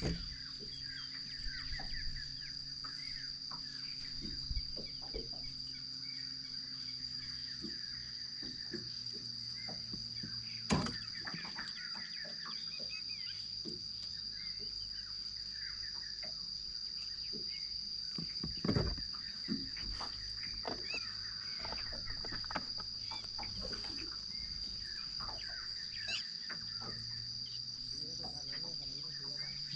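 Insects, crickets or cicadas, chirring in one steady high-pitched drone, with scattered short chirps from birds or fowl. Two sharp knocks stand out, one about a third of the way in and one near two-thirds.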